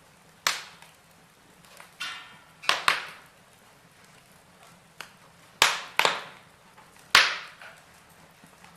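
Logs burning in a fireplace, crackling with about eight sharp pops and cracks at irregular intervals over a faint steady background. A brief hiss comes about two seconds in.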